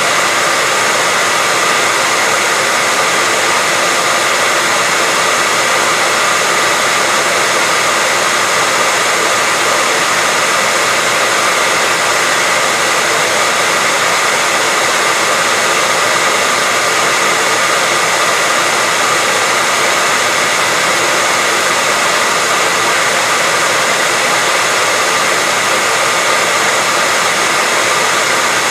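Hair dryer running steadily, a continuous even whoosh of fan and airflow with a faint steady whine in it, used as white noise.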